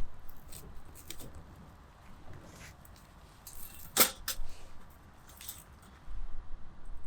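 A few scattered sharp clicks and light knocks, the loudest about four seconds in, with a low rumble near the start and again near the end.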